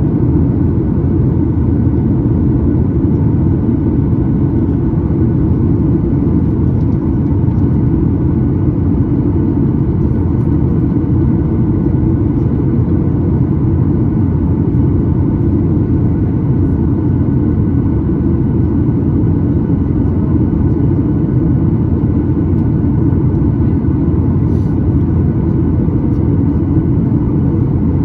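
Cabin noise of a Boeing 737-9 MAX: a steady low rumble of engines and airflow, with faint steady tones above it.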